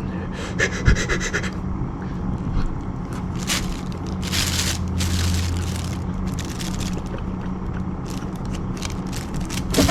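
Irregular bursts of scraping and rustling from something being handled, over a steady low hum.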